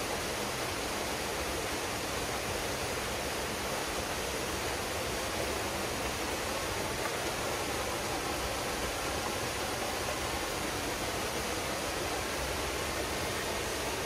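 Waterfall pouring steadily into a pool, an even rushing of water with no breaks.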